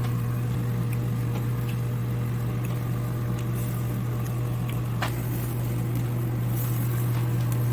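Steady low hum of a range hood's exhaust fan running over a charcoal barbecue grill, with a few faint ticks.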